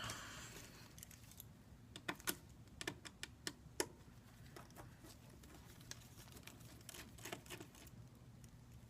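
Faint, irregular light clicks and taps of small tools and parts being handled on a workbench, more frequent in the first few seconds, over a faint steady low hum.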